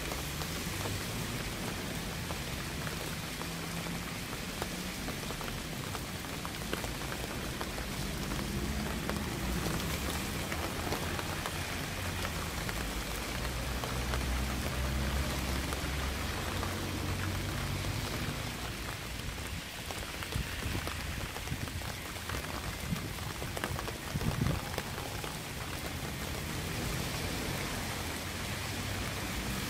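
Steady rain falling, an even hiss with scattered sharp drip ticks. A low rumble underneath builds through the middle and fades again in the later part.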